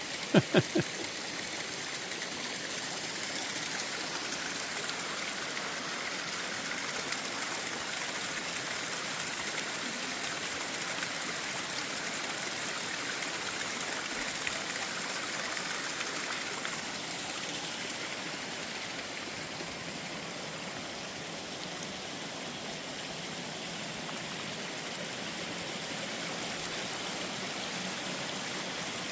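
Steady rushing of running water, like a stream, with three quick loud knocks about half a second in.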